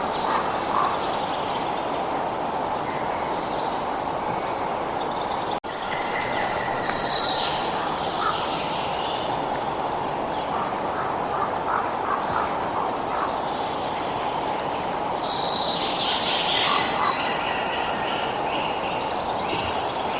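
Birds chirping and trilling in short calls over a steady rushing background noise, which cuts out for an instant about five and a half seconds in.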